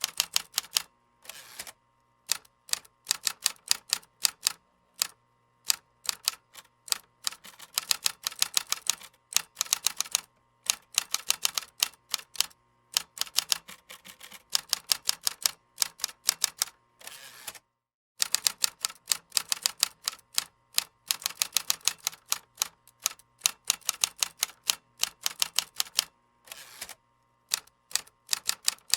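Typing on a computer keyboard: runs of quick key clicks in bursts of several seconds, broken by short pauses, with a clear pause of about half a second a little past the middle.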